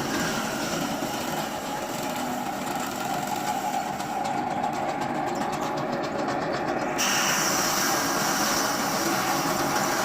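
Machine stripping seeds from broomcorn (broom sorghum) stalks, running steadily with a continuous rattling clatter; the sound turns brighter and hissier about seven seconds in.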